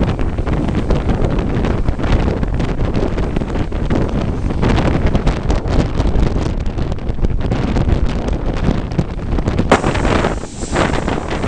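Wind buffeting the microphone over the rumble of a moving passenger train. A sharp click comes about ten seconds in, after which the sound turns hissier.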